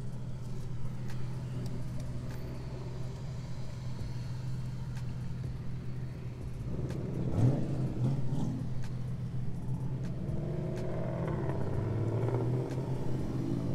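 Several cars drive slowly past with their engines running, over a steady low idling drone. About halfway through, one engine revs briefly and rises in pitch.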